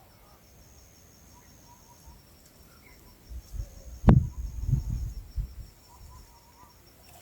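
Crickets chirping at night, a faint, steady, rapid high-pitched pulsing. About four seconds in comes a sharp snap, the loudest sound, with a few dull low thumps around it.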